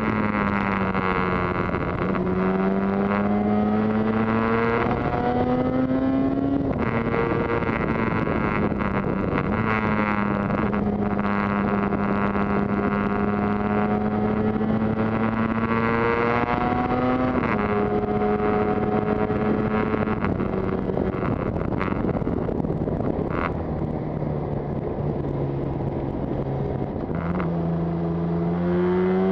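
Yamaha TZR250 two-stroke twin engine running on the move, its pitch climbing through the revs and dropping sharply at gear changes (about a third of the way in and again past halfway), holding steady between, over a steady rush of wind and road noise.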